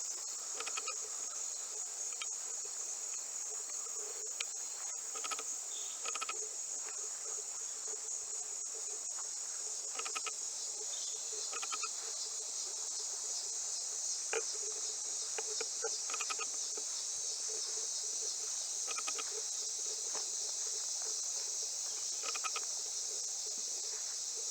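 Outdoor insect chorus: a steady high-pitched trill, with short fainter chirps now and then.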